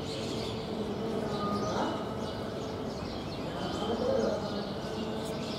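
Small birds chirping in short, scattered calls over a low, continuous murmur of distant voices.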